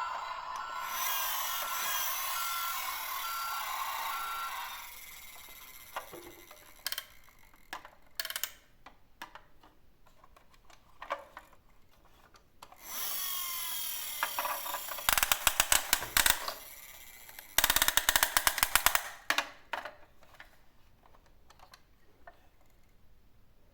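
Toy garbage trucks being worked. First an electronic sound effect with a held tone and a run of short beeps. Then scattered plastic clicks, a brief whirr, and two bursts of rapid clicking from the toy's gears, each over a second long.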